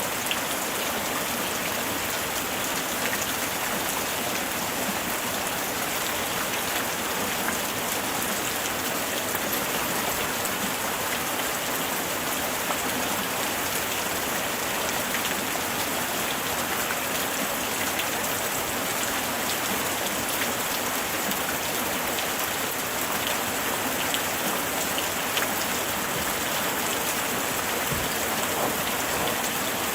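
Steady light rain falling, many fine drops pattering on surfaces in an even hiss.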